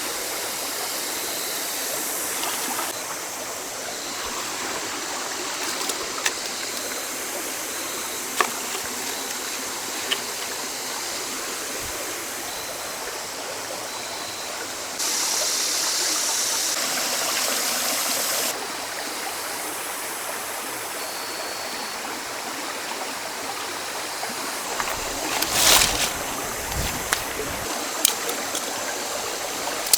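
Flowing river water running steadily, a continuous rushing hiss. A few small clicks, and a short louder knocking disturbance near the end.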